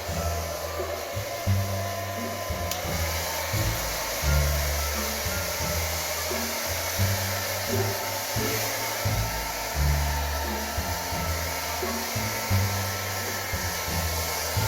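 Hair dryer blowing steadily, with background music and a repeating bass line underneath.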